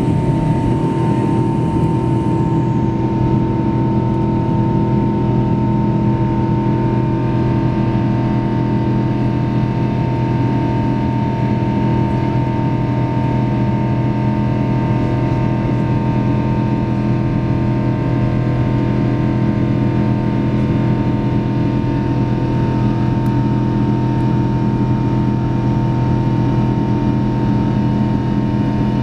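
Boeing 777-200ER jet engines heard inside the passenger cabin: a steady drone with several even humming tones over a loud rumble, holding constant throughout.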